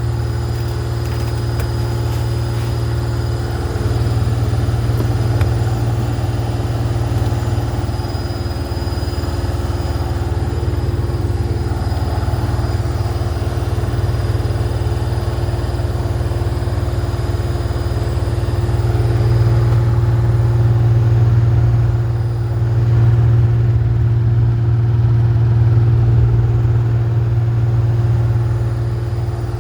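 Washing machine running at full speed: a loud, steady motor drone with a strong low hum and a few slow swells in level.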